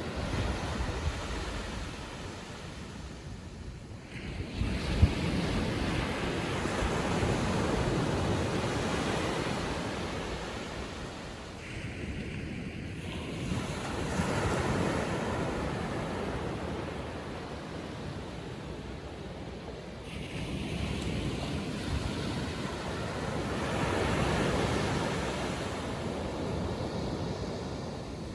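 Small waves of a calm sea breaking and washing up the beach, the surf swelling and fading every several seconds. Wind buffets the microphone with a short low thump about five seconds in.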